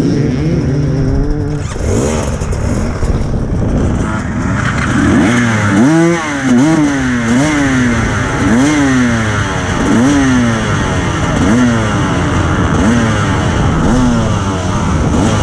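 Husqvarna TE300 two-stroke enduro motorcycle engine under way. From about five seconds in it repeatedly revs up and drops back, roughly every second and a half, as the bike is ridden hard.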